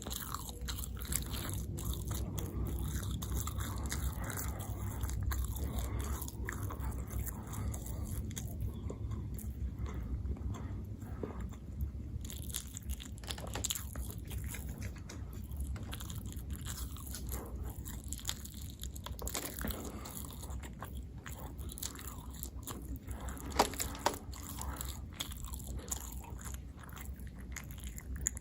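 Close-miked chewing and biting of food: a steady run of small mouth clicks and crunches, with a few louder bites about four-fifths of the way through.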